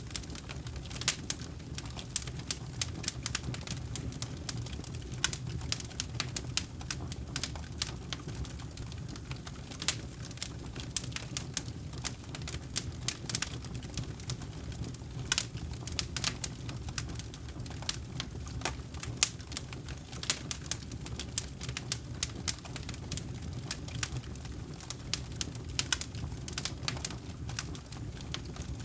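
Wood campfire crackling, with many irregular sharp snaps and pops over a steady low background of the burning fire.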